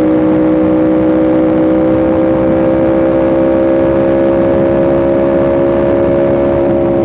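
Yamaha R1M's crossplane inline-four engine running steadily under way, its engine note holding and rising slowly in pitch, over wind and road rush.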